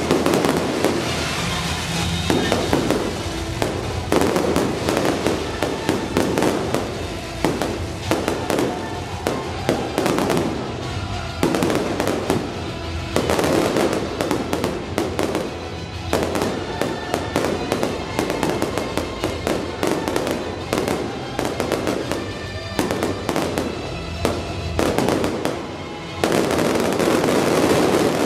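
A fireworks display: a dense, continuous volley of crackles, pops and bangs from crackling shells and fountains, swelling louder and thicker about two seconds before the end.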